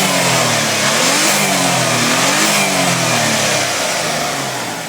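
Mitsubishi 3000GT VR4's twin-turbo V6 being revved while parked: the engine pitch rises and falls twice in quick blips, then sinks back toward idle near the end.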